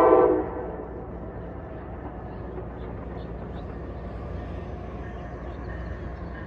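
An Amtrak ACS-64 electric locomotive's K5LA five-chime air horn ends a blast about half a second in, cutting off sharply, followed by a steady low rumble.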